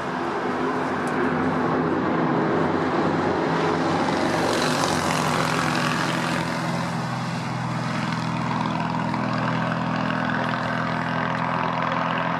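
Boeing 787 airliner's turbofan engines at takeoff power during its takeoff: a loud, steady rush over a low hum, with the hiss brightening about four to six seconds in.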